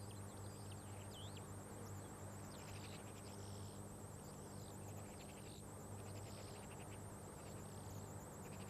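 Faint high-pitched bird calls, short chirps and quick trills repeated every second or so, over a steady low hum and hiss.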